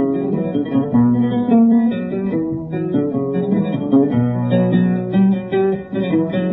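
Oud playing an instrumental passage of plucked melodic phrases, with no singing.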